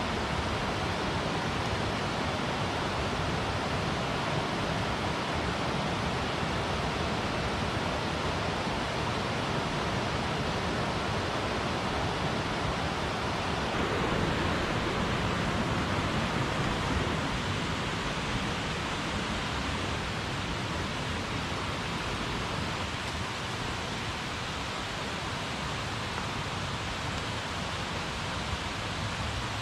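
Mountain headwater stream rushing, a steady even rush of water that swells a little about halfway through and then eases slightly.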